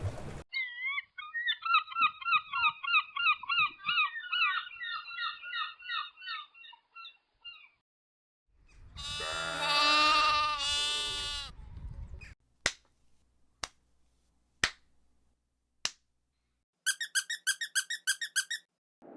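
A run of separate stop-motion sound effects. First comes a fast warbling trill of chirps lasting several seconds. Then a pitched, wavering sound of about four seconds, four sharp clicks about a second apart, and a brief rapid high beeping trill near the end.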